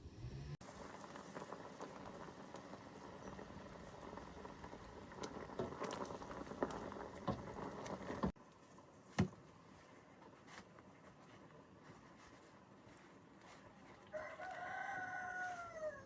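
A rooster crows once near the end: one held call of about two seconds that falls at its close. Before it comes a rustling, crackling noise that cuts off abruptly about halfway through, then a single sharp knock.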